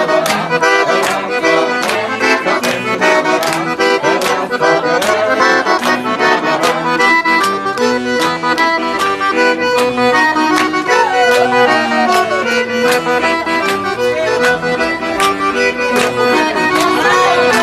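Accordion (sanfona) playing an instrumental tune with chords and a moving melody, over a steady beat of sharp percussive strikes.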